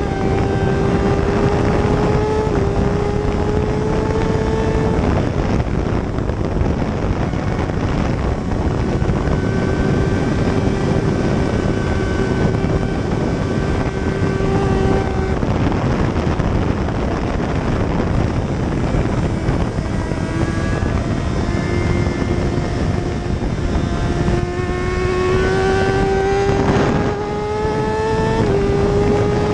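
Racing motorcycle engine at high speed, its note climbing steadily through each gear and dropping sharply at the upshifts, over a heavy, steady rush of wind noise.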